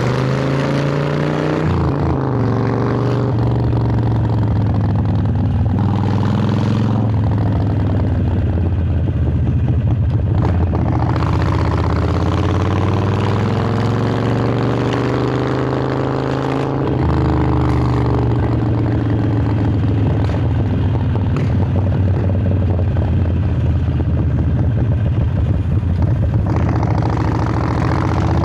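Harley-Davidson Sportster 1200 Roadster's air-cooled V-twin running through Vance & Hines Hi-Output Grenades 2-into-2 pipes while riding, its revs rising and falling several times. It is picked up by a microphone in the rider's shirt collar.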